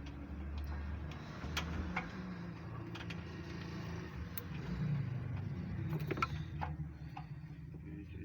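Scattered metallic clicks and taps of hand tools working the engine's valve gear during tappet clearance adjustment, over a low steady hum. The sharpest tap comes about six seconds in.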